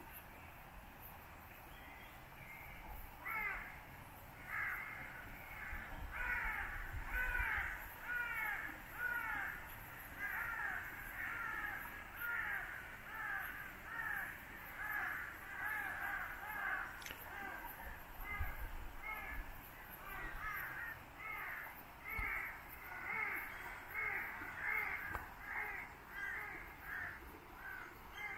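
Birds calling over and over, a dense run of short repeated calls at about one to two a second that starts about three seconds in, over a faint steady outdoor background.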